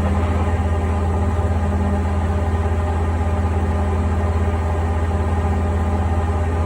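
Haier HW90-BP14636 front-loading washing machine in its spin cycle, set to 1000 rpm: a steady low hum with a whine from the belt-driven inverter motor and drum turning at constant speed.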